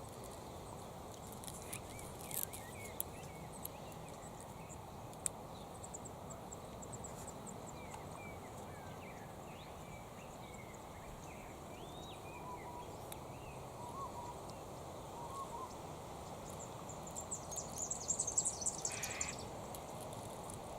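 Outdoor bird calls: scattered short chirps and twitters over a steady faint background hiss, with a few light clicks early on and a burst of high-pitched twittering near the end.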